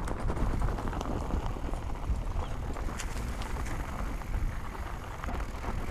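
Mountain bike rolling over a rough dirt trail: tyres crunching over rocks and ground, the bike rattling with scattered clicks, over a steady low rumble.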